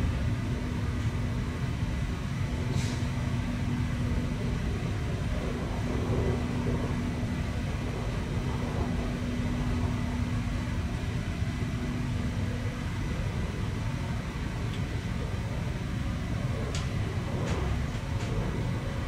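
Steady rumble of a train running at speed, heard from inside the passenger car. A steady hum fades out about two-thirds of the way through, and a few short clicks come near the start and near the end.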